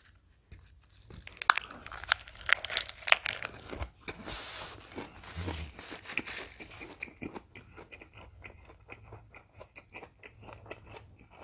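Close-miked biting and chewing of a mouthful of leaf-wrapped rice (ssam). Loud, crisp crunches come in the first few seconds, then softer chewing that thins out.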